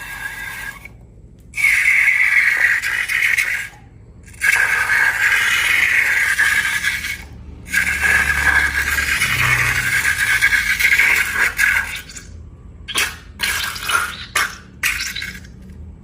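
Slime-making handling sounds: three stretches of steady rushing noise, each a couple of seconds or more, then a quick run of short crackly squishes near the end.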